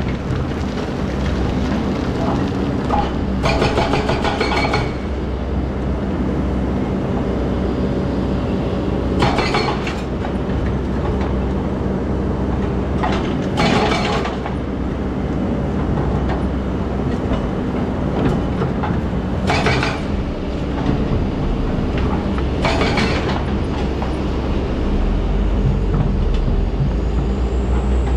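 Excavator's diesel engine running steadily under load, with short harsh noisy bursts every four to six seconds as it works.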